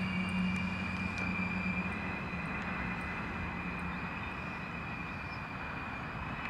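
Diesel multiple unit running slowly round a curve: a steady engine hum with a steady high whine over it, fading slightly as it moves away.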